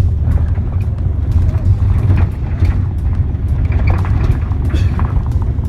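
Steady low rumble of a moving road vehicle, heard from inside it.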